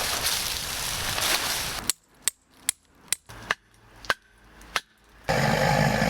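Firewood crackling as it burns: about seven sharp pops, roughly one every half second, in a quiet stretch. Before it and from about five seconds in, a loud steady hiss fills the sound.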